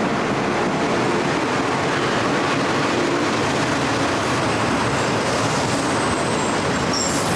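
Passenger train pulling into the station with a steady rumble of running gear. Near the end a high squeal starts up as the train brakes to a stop.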